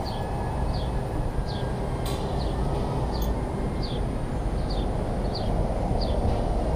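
A small bird calling over and over, a short falling chirp about every 0.7 seconds, over a steady low outdoor rumble. A single light knock, like the welded-wire kennel panel being handled, comes about two seconds in.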